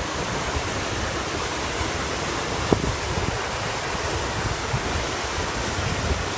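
Steady rush of a waterfall mixed with wind buffeting the microphone in uneven low gusts, with a single short knock close to the microphone a little under three seconds in.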